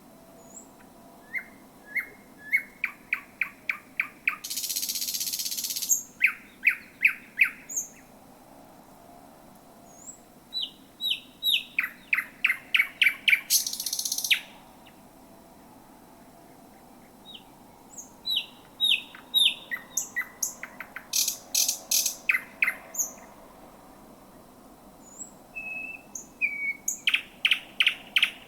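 Thrush nightingale singing at close range: phrases of fast, loud repeated notes, several of them ending in a harsh, rasping rattle, with pauses of two or three seconds between phrases.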